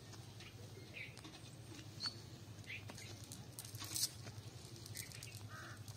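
Faint, scattered chirps of small birds over a low steady hum, with a sharp click about two seconds in and a brief louder rustle about four seconds in.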